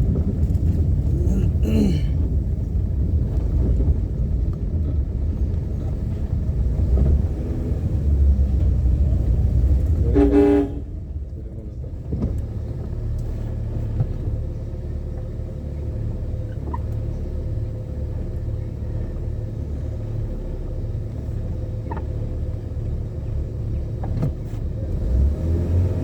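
A car driving, with a steady low rumble of engine and road noise that eases a little after about ten seconds. A vehicle horn sounds briefly about ten seconds in.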